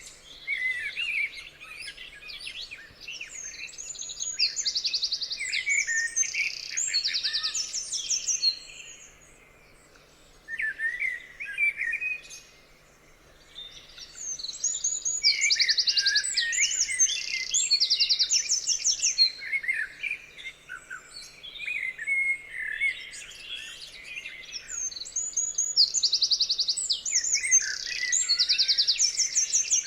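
Several songbirds singing and chirping together, with rapid high trills among the calls. The song thins out briefly twice near the middle, then picks up again.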